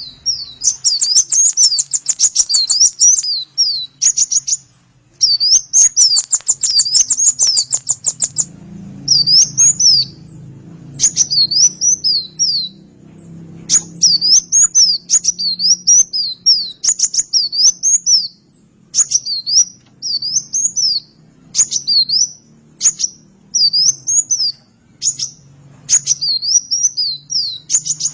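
Konin bird singing: short, high, quick phrases of a few swooping whistled notes, repeated with brief gaps, with fast chattering trills in the first eight seconds. A faint low hum runs underneath from about a third of the way in.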